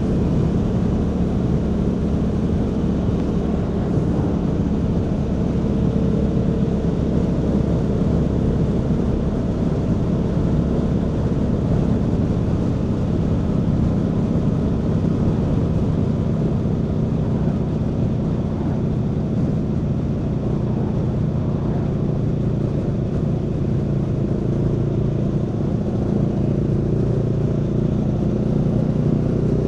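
Aprilia Tuono V4 motorcycle's V4 engine running at a steady, even pitch, with a low rumble underneath.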